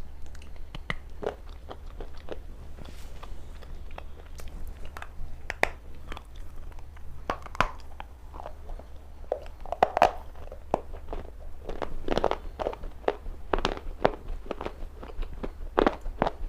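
Pieces of wetted black slate stone bitten and chewed close to the microphone: a run of sharp, irregular crunches and crackles, coming thicker and louder in the second half, over a steady low hum.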